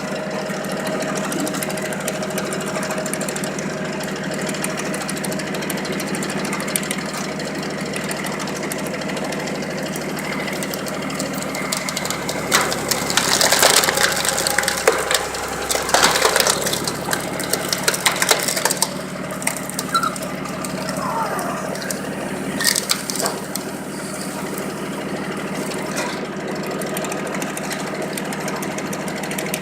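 Tractor engine running steadily, driving a homemade PTO-powered log splitter. About twelve seconds in, a log is forced apart, and for several seconds the wood crunches and cracks, with a few single cracks afterwards.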